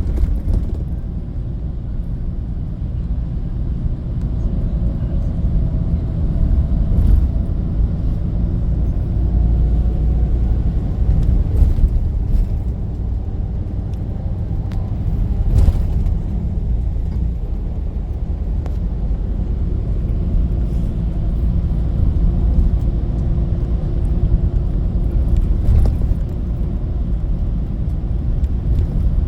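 Bus under way: a steady low rumble of engine and road noise, with a faint whine that rises in pitch about five to ten seconds in as the bus gathers speed.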